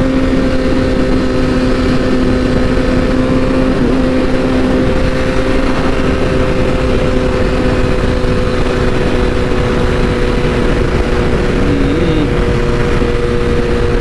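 BMW S1000RR's inline-four engine running at a steady, nearly unchanging pitch while the bike cruises, under a steady rush of wind noise.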